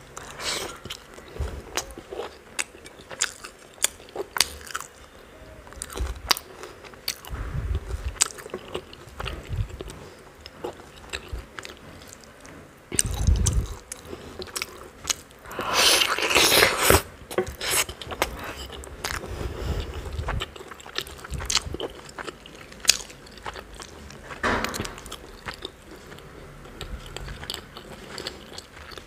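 Close-up mouth sounds of eating chicken curry and paratha by hand: biting and chewing, with many wet clicks and smacks and a louder, denser stretch of chewing a little past halfway.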